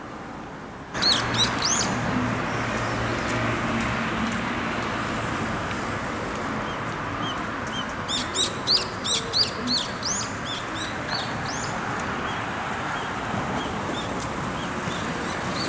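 Songbird chirping: a few quick rising-and-falling chirps about a second in, then a rapid run of them near the middle, over a steady outdoor hum.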